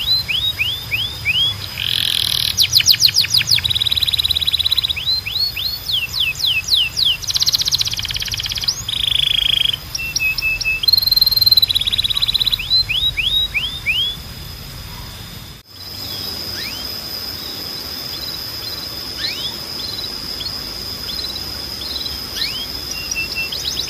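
Spanish Timbrado canary singing: rapid phrases of repeated falling notes and trills, each phrase changing every second or two. After an abrupt break about two-thirds through, only scattered faint chirps over a steady high tone remain until the song starts again near the end.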